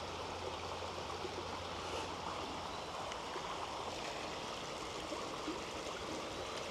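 Creek water flowing steadily, an even wash of running water.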